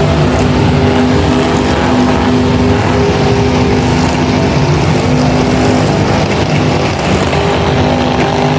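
Loud car engine held at steady high revs in a burnout, with the rushing noise of spinning tyres.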